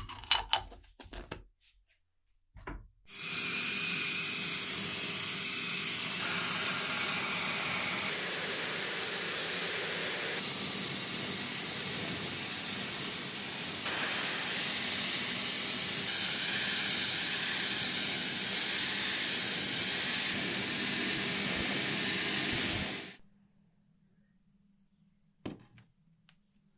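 A steady, loud spray hiss that starts about three seconds in after a few light clicks, runs for about twenty seconds, and cuts off sharply; one knock follows near the end.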